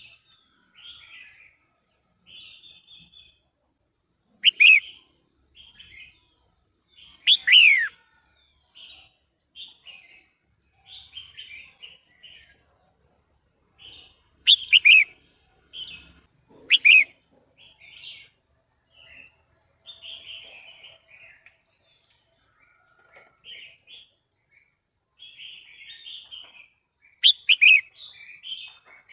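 Female red-whiskered bulbul calling: a steady run of short chattering notes, broken by about half a dozen loud, sharp calls that slur downward in pitch, two of them coming as a quick pair near the end.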